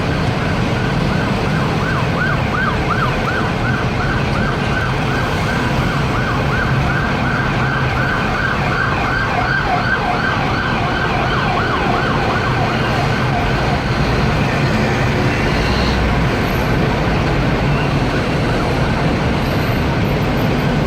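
Emergency vehicle siren in fast yelp mode, about three rising-and-falling wails a second, fading out about two-thirds of the way through, over the steady rumble of heavy road traffic.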